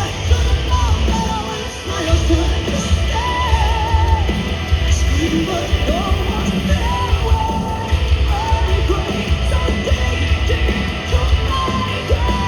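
Live hard rock band playing at full volume: heavy drums and bass with distorted guitars, and a wavering melodic line over them.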